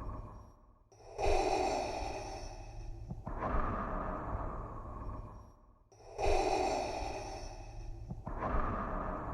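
Darth Vader's mechanical respirator breathing: slow, evenly paced hissing breaths in and out through the mask, about two full breath cycles, over a steady low hum.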